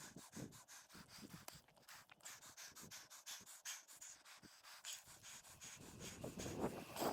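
A cyclist breathing hard in quick, faint pants. Near the end a louder rush of noise builds up.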